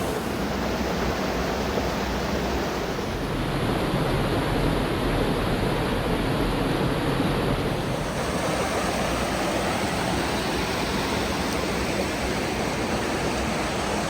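Fast, storm-swollen mountain creek rushing over rocks in a canyon: a dense, steady hiss of white water with no breaks.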